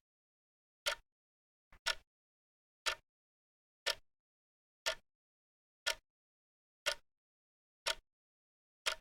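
Clock ticking at a steady one tick per second, each tick a short sharp click with dead silence between ticks.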